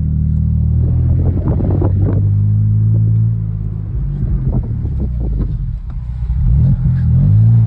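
BMW E39 engine running as the car gets under way, with scattered clicks over it. The engine note rises as it revs up near the end.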